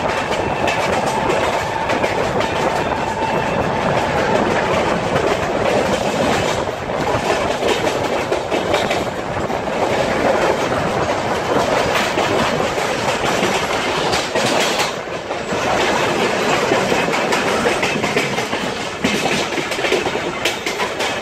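Passenger train running at speed, heard from an open coach door: steady wheel-on-rail rumble with rhythmic clickety-clack over rail joints and points. A faint high whine sounds in the first few seconds.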